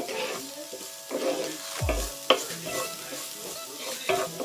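Wooden spoon stirring and scraping diced food that is sizzling in hot oil in a ridged grill pan, with a sharp knock about two seconds in.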